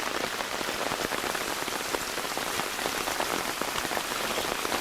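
Heavy rain falling steadily, a dense stream of drops hitting the umbrella overhead, over floodwater runoff rushing across the yard.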